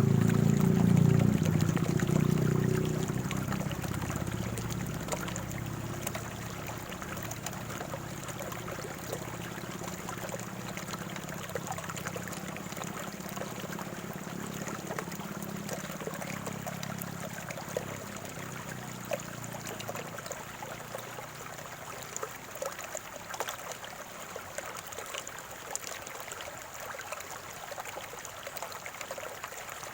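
Shallow stream water trickling and gurgling, with many small splashes. A low rumble is loud at the start and fades away over the first twenty seconds or so.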